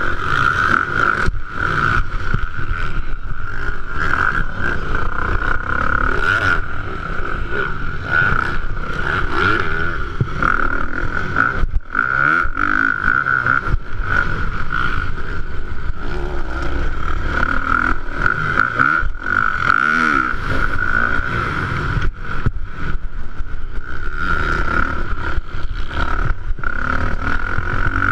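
Motocross bike engines in a 450-class race, revving up and down as the bikes run the track. A steady high whine runs through the sound, broken by frequent knocks.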